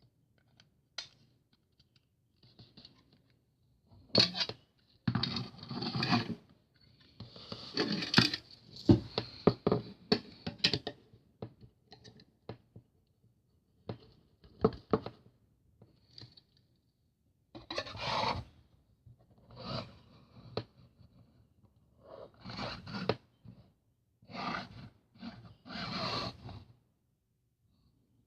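Model-plane packaging being handled by hand: irregular bursts of scraping, rustling and tearing, with a few sharp clicks.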